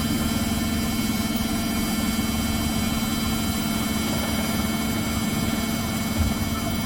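Samsung ecobubble washing machine spinning its drum: a steady, unbroken hum.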